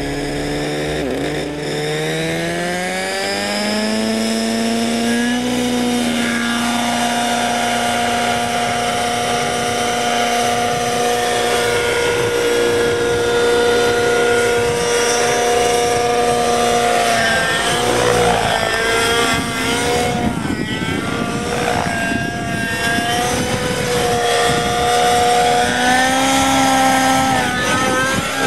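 Large radio-controlled helicopter's engine spooling up, rising in pitch over the first few seconds, then running steadily at high speed, with a few changes in pitch in the second half.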